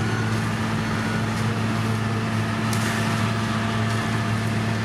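Engine of heavy road-paving machinery running steadily, a constant low drone with no change in speed, with a few faint ticks over it.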